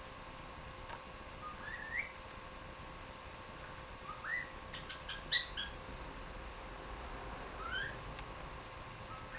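Cockatiel whistling its song: a few short rising whistles a couple of seconds apart, with a quick cluster of brief chirps around the middle.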